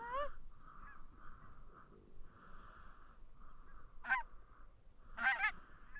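Goose honking: a sharp call at the start, another about four seconds in, and two quick ones close together near the end, over a faint hazy background.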